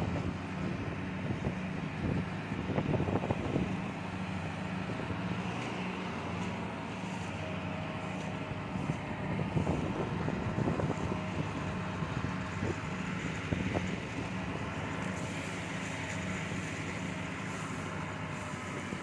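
Kubota DC70 Plus rice combine harvester running steadily under load as it cuts, its diesel engine giving a constant low drone. Wind buffets the microphone in rough gusts during the first few seconds.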